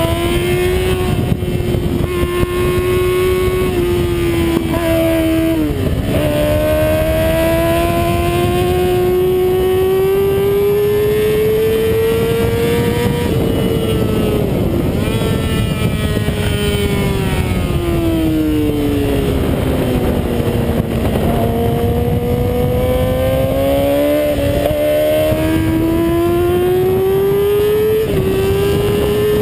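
Yamaha R6's inline-four engine at racing speed, heard from on board. Its note climbs and falls as the bike pulls out of corners and eases off, with a few short breaks in the note at gear changes.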